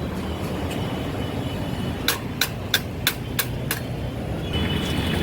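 Six sharp metal taps, about three a second, like a hammer striking metal during bicycle repair work, over a steady low traffic rumble.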